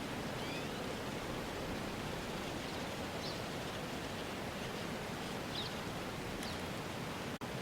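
Steady rushing outdoor ambience noise with a few faint, short high chirps scattered through it. It drops out for an instant near the end.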